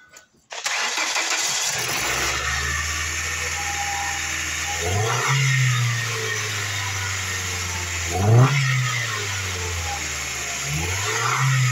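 A 2003 Ford Focus's Zetec four-cylinder engine starts about half a second in, settles to a steady idle, and is revved briefly three times, each rev rising and falling back to idle.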